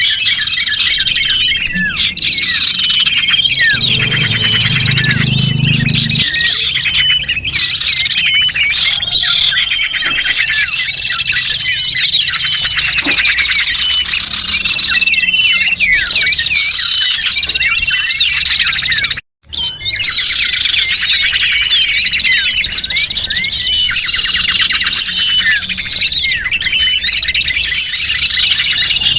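Many small songbirds chirping and twittering at once, a dense mix of quick high calls and trills: a lure recording for trapping small birds. The sound cuts out completely for a split second about two-thirds of the way through, then resumes.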